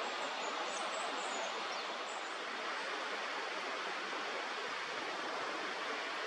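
Steady rushing of river water. Faint high chirps of small birds are heard during the first two seconds.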